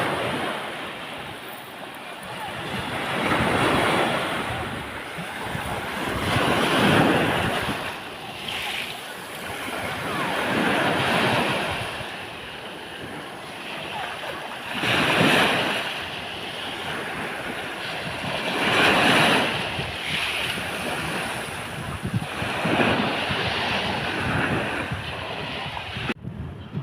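Sea waves breaking on a beach, the surf swelling and falling back about every four seconds, with some wind on the microphone.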